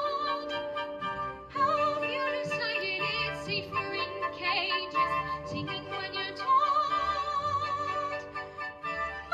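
A young female soprano singing a slow musical-theatre song over instrumental accompaniment, holding long notes with a clear vibrato, with a brief breath break about one and a half seconds in.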